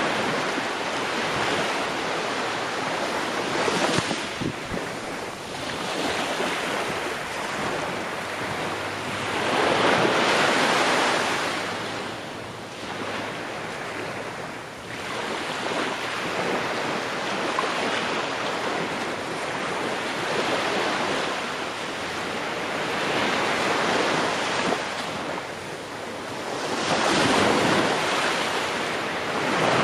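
Ocean waves breaking and washing on a shore, the surf swelling and easing every several seconds, with about four or five larger surges.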